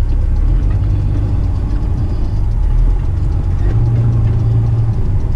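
Heavy diesel tipper truck's engine running, heard from inside the cab: a steady low rumble.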